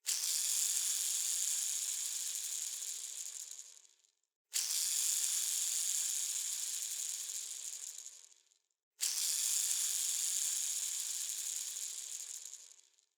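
A bearing set spinning and left to run down, three times in a row: each spin starts suddenly with a high, hissy whir and fades out over about four seconds.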